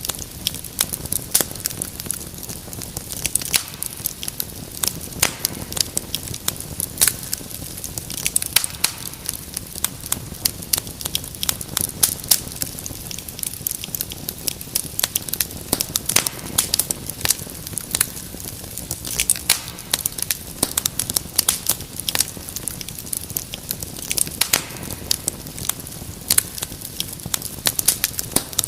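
Wood fire crackling in a fireplace: a dense, irregular stream of sharp pops and snaps over a steady low rumble of flames.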